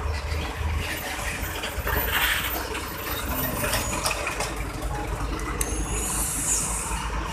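Heavy road traffic with trucks: engines running and idling with a steady low rumble, and brief hissing bursts about two seconds in and near the end.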